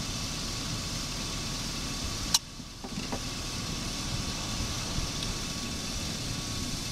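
Chevy Suburban engine idling steadily under the hood with the A/C running, with one sharp click a little over two seconds in, after which the steady noise briefly dips before returning.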